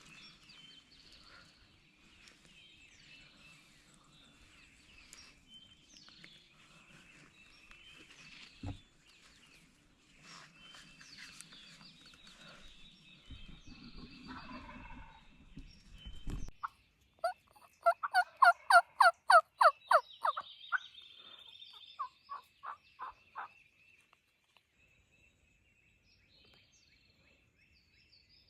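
Turkey yelping: a loud run of about a dozen evenly spaced yelps, four or five a second, then a shorter, softer run, with songbirds chirping in the background.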